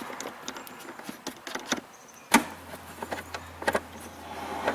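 Scattered clicks and knocks of hand tools on metal while the fuse box's 10 mm fasteners are being removed. A sharper knock comes about halfway through, and a low steady hum follows it.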